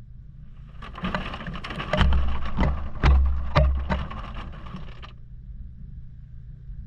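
Inside a running Maytag washing machine: a steady low motor hum, then a burst of rushing, sloshing water and laundry with several heavy thumps and clicks as the load and camera knock against the drum, cutting off abruptly after about four seconds.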